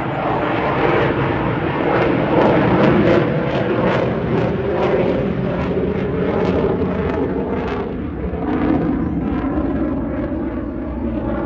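Jet noise from a Eurofighter Typhoon flying a high angle-of-attack pass: a loud, continuous roar that eases slightly near the end.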